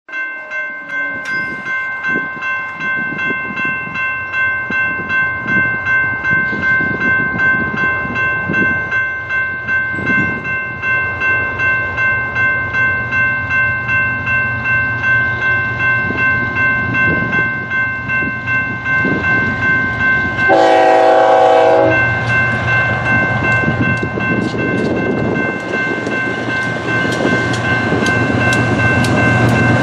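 A grade-crossing bell rings steadily and rhythmically as a BNSF freight led by GE ES44C4 diesel locomotives approaches. About two-thirds of the way through, the lead locomotive sounds one short horn blast. The locomotives' diesel rumble grows louder toward the end.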